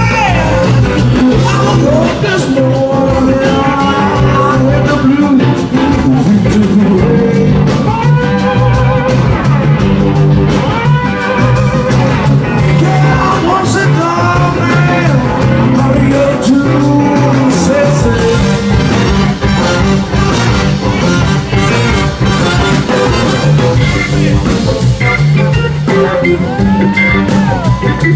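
A band playing: drums, guitar and a singing voice.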